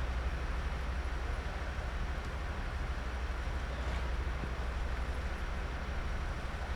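Diesel railcar standing with its engine idling, a steady low rumble.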